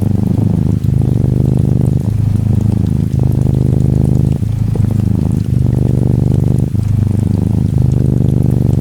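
Norwegian Forest Cat kitten purring close to the microphone: a steady low, rapid rumble with brief breaks about once a second. Gentle rain patters faintly behind it.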